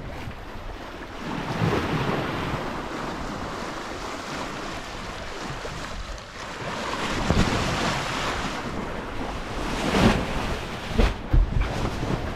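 Wind buffeting the microphone over the rush of waves and water washing past a sailboat, swelling and easing, with a few louder thumps near the end.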